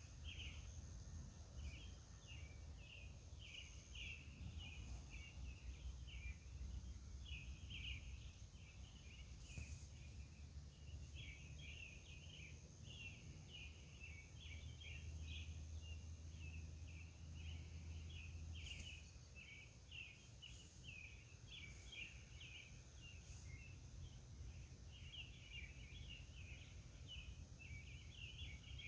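Faint pre-dawn summer night ambience: many rapid, irregular chirps from calling animals, over a steady high-pitched trill and a low distant rumble.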